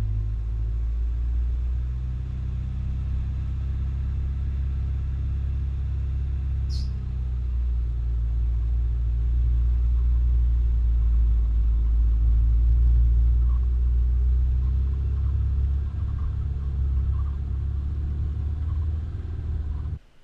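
Four-wheel-drive vehicle driving, its engine and running gear making a steady low rumble with a brief high squeak about a third of the way through. The sound cuts off abruptly at the end.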